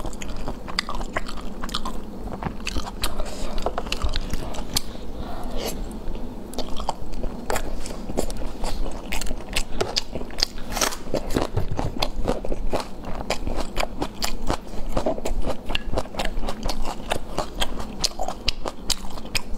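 Close-up eating sounds: biting and chewing of spicy braised food in chili oil, with many short wet mouth clicks and soft crunches all through.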